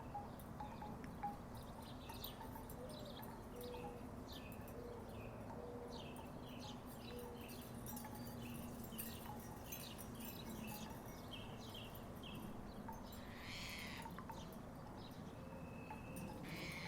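Wooden tiki wind chimes knocking together softly and irregularly in the breeze, giving short hollow clacks, over a faint steady low background rumble.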